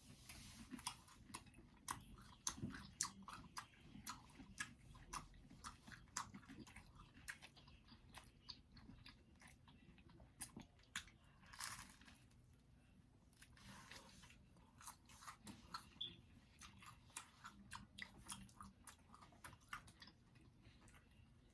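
People chewing and biting into pizza: an irregular run of small crisp crunches and mouth clicks, with a brief louder crunch about twelve seconds in.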